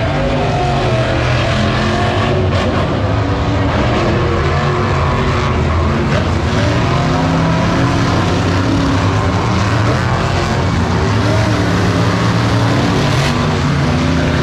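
Big truck engines running loud and continuous, their pitch shifting slightly as they rev.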